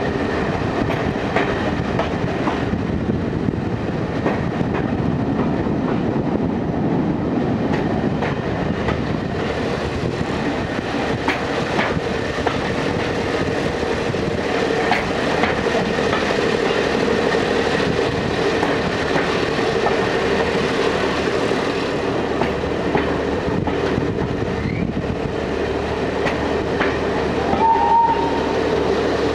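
Heritage train running along the track, heard from an open coach window: a steady rolling noise with wheels clicking over the rail joints. Near the end a brief toot sounds.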